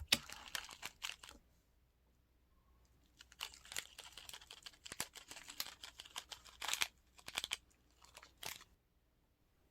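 Slime being pressed and squished by hand, giving dense crackling clicks in two stretches with a pause of about two seconds between them.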